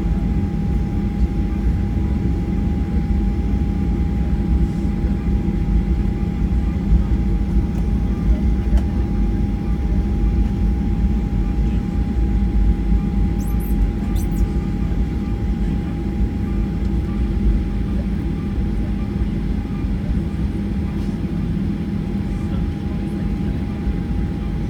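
Cabin noise of a Boeing 737-800 taxiing on the ground after landing: a steady low rumble from its CFM56 engines at taxi power, with a constant whine.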